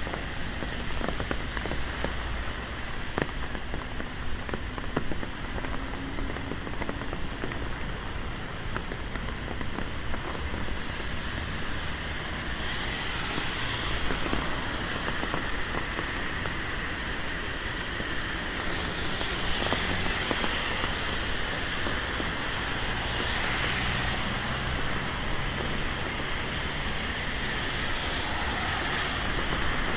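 Steady rain on a city street, with sharp drop ticks through the first half. Past the middle come swells of hiss from traffic on the wet road.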